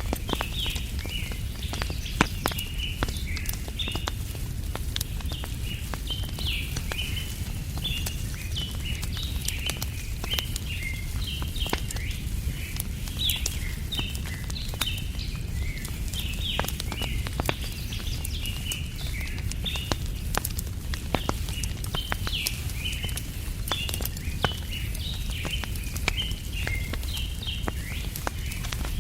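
Wood fire crackling, with many sharp pops, over a steady low rumble. Small birds chirp throughout in a dense chorus of short, high calls.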